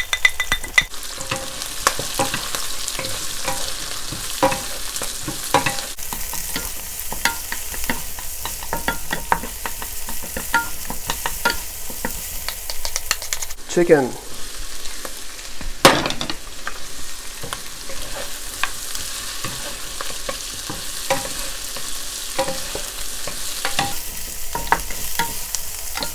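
Vegetables stir-frying in a hot oiled wok: a steady sizzle with frequent clicks and scrapes of a utensil against the wok. About 14 seconds in, a falling scrape as the chicken is added, then a loud clack a couple of seconds later, and the sizzling goes on.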